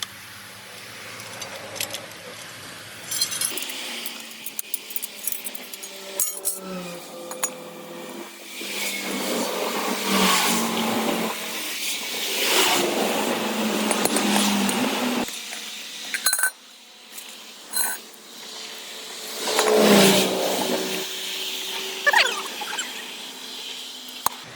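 Roadside noise of vehicles passing by, swelling and fading several times, with scattered metallic clinks and knocks from tyre-changing work.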